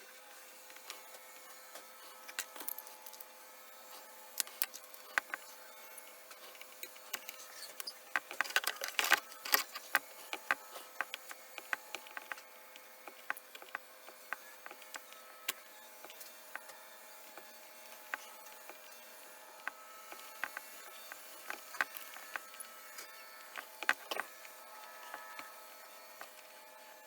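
Irregular small clicks and taps of hands and tools working on a cassette deck, with a busier run of clicking about a third of the way in, over a faint steady hum.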